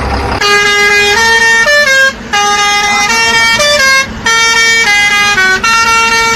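A musical vehicle horn playing a tune of short stepped notes, with two brief breaks. A low engine rumble stops just before the tune begins.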